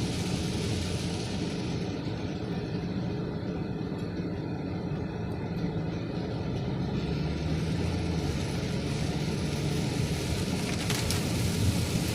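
Heavy rain drumming on a car, heard from inside the cabin, over the steady low hum of the car's engine running.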